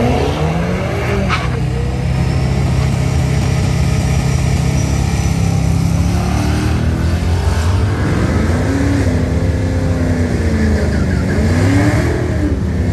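Car engine running steadily, then revving up and down several times from about halfway through.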